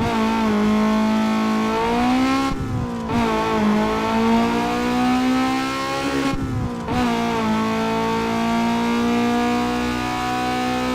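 Toyota Celica engine pulling under load with its pitch slowly climbing, interrupted twice by brief lifts off the throttle, as in gear changes, after which it picks up again at a lower pitch.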